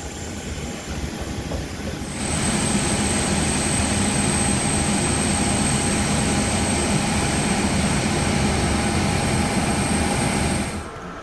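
Steady mechanical running noise of a vehicle, rumbling with a high steady whine; it starts abruptly about two seconds in and drops away just before the end.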